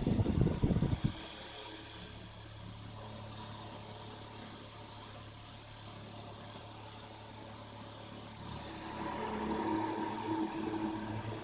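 Homemade table fan driven by a 775 12 V DC motor, running loudly and then dropping off sharply about a second in. A faint steady low hum carries on, growing somewhat louder near the end.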